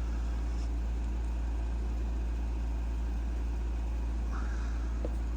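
Steady low hum with no change in level, a constant background drone from a machine or the recording itself.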